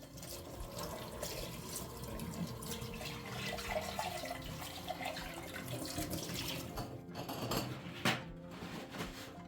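Water running from a tap into a sink, with a sharp knock about eight seconds in.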